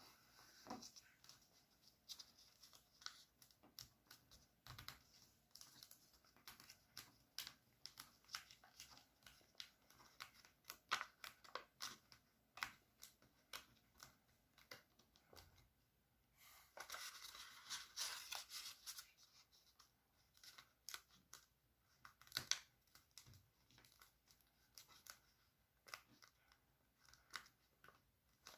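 A sheet of paper being folded and creased by hand: faint crinkles and sharp little clicks throughout, with a longer rustle of paper rubbing about two-thirds of the way in.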